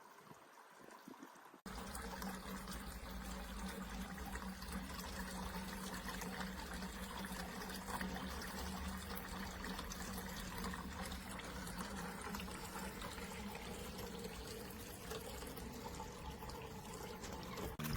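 Water trickling and splashing down the tiers of a four-tier solar cascade fountain, with a steady low hum under it. It starts abruptly about two seconds in, after a faint start.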